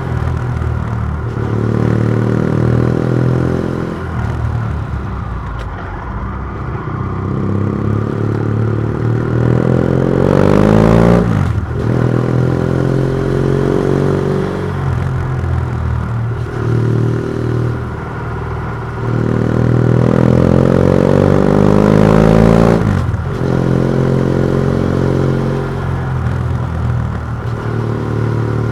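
BMW F700GS parallel-twin with a MIVV Oval titanium exhaust, its dB killer removed, being ridden through the gears: the engine note rises and falls again and again, and twice climbs hard to high revs before dropping sharply.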